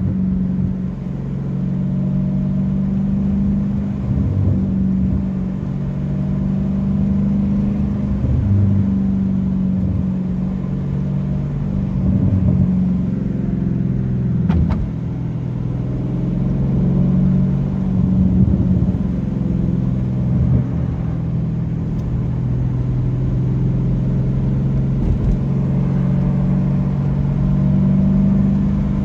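Straight-piped 6.4-litre 392 HEMI V8 of a 2023 Dodge Challenger Scat Pack cruising. Its exhaust drone holds steady, with small rises and dips in pitch as the throttle changes. There is a short click about 15 seconds in.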